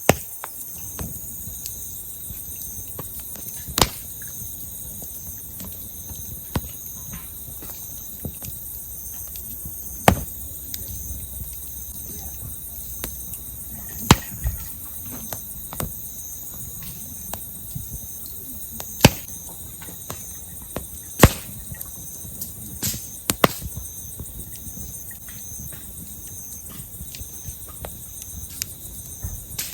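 Firewood burning in a campfire, crackling with sharp pops every few seconds, over the steady chirring of crickets.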